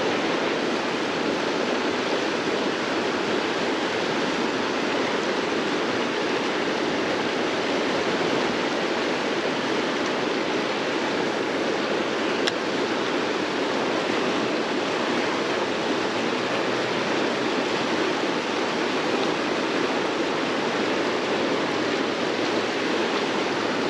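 Steady rush of flowing river water, an even hiss that holds a constant level throughout.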